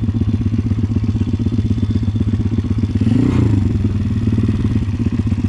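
Pit bike engine idling with an even, rapid firing pulse, swelling briefly about three seconds in before settling back to idle.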